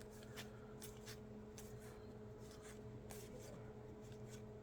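Faint rubbing and sliding of trading cards being flipped through by hand, irregular soft scrapes over a low steady hum.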